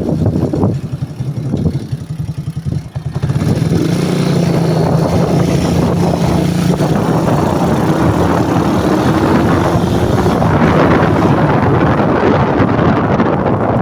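Motorcycle engine running under way, its pitch rising gradually for a few seconds as it accelerates. Wind buffets the microphone in gusts over the first few seconds.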